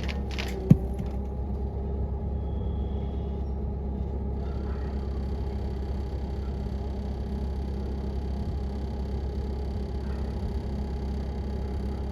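An engine hums steadily, with a sharp metallic knock about a second in.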